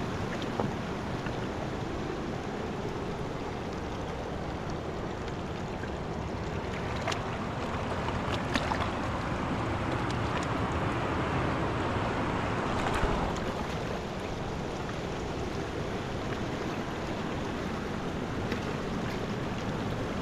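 Mountain river water rushing steadily, swelling slightly in the middle, with a few short, sharp clicks on top.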